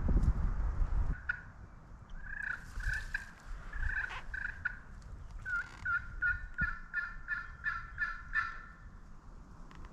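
Wild turkey yelps: a few scattered notes, then a quick, even run of about ten yelps over the last few seconds. A low rumble in the first second.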